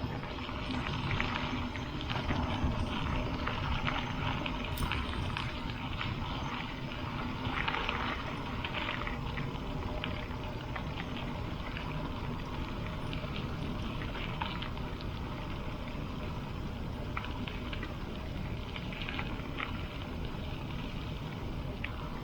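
Bicycle tyres rolling over a gravel road, with a steady crunch and scattered ticks of small stones, under a low rumble of wind on the microphone.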